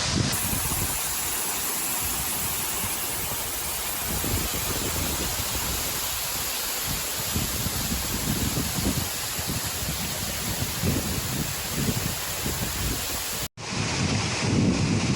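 Waterfall rushing steadily, with gusts of wind buffeting the microphone at times. The sound drops out for an instant near the end at a cut.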